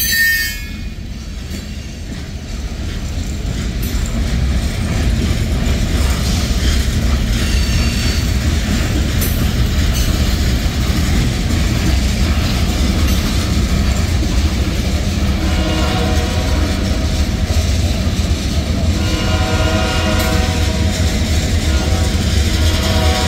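Loaded freight cars of a Norfolk Southern train, tank cars and covered hoppers, rolling past close by: a steady low rumble with wheel clatter over the rail. A few spells of high, pitched ringing join in about two-thirds of the way through and again near the end.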